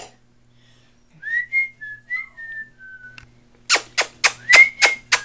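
A person whistling a few short, gliding notes, then a quick run of sharp clicks, about four a second, with more whistling over them, the kind of noises made to catch puppies' attention.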